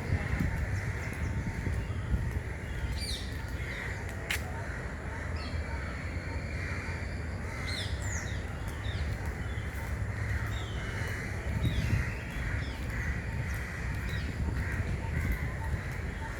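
Birds calling outdoors, with scattered short chirps and calls and harsher cawing calls, over a steady low background rumble.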